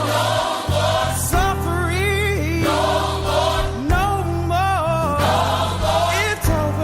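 Gospel song with a choir and lead vocals singing over a steady bass line.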